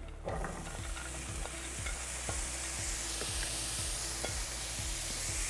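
Diced bell peppers sizzling in a hot oiled frying pan, a steady frying hiss with scattered light clicks of a utensil stirring them.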